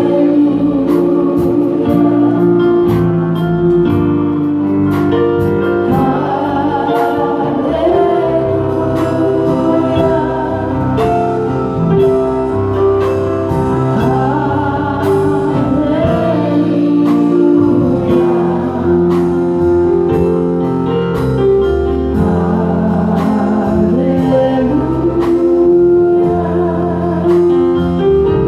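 Gospel music: singing voices over instrumental backing, with a steady beat of regular percussive hits.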